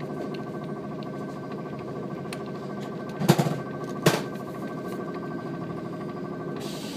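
Cabin running noise of a JR 115 series electric train at speed: a steady rumble with a whine of several steady tones from the running gear. Near the middle, two sharp clacks under a second apart, as the wheels cross a rail joint, and a hiss rises near the end.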